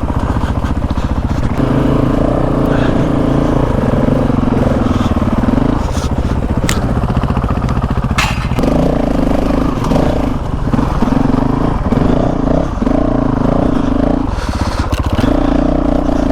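Honda CRF450RL single-cylinder four-stroke dirt bike engine running on a trail, its note strengthening and easing off in stretches as the throttle is opened and closed. A few sharp clicks and knocks are heard, about seven and eight seconds in.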